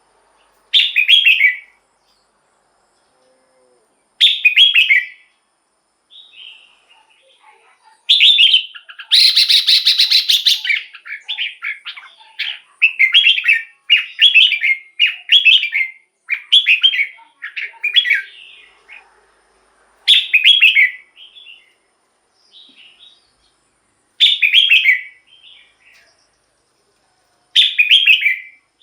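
Red-whiskered bulbul singing short warbled phrases every few seconds. About nine seconds in there is a harsher, noisier burst, followed by a quick run of phrases one after another.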